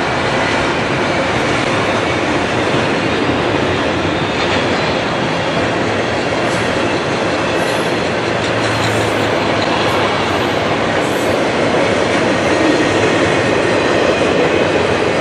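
Double-stack intermodal train of container well cars rolling past close by: a steady, loud rumble of steel wheels on rail, with a few short, faint high squeals near the middle.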